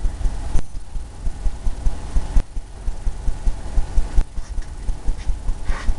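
A paintbrush dabbing and scrubbing oil paint onto a stretched canvas, making a quick, irregular run of low thumps.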